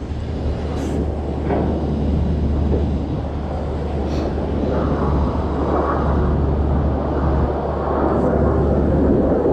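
Wind buffeting the microphone over a steady low rumble from the crane's engine as the boom is raised.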